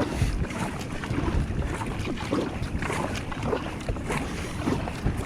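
Wind buffeting the microphone over water sloshing and splashing around a sea kayak out in the surf.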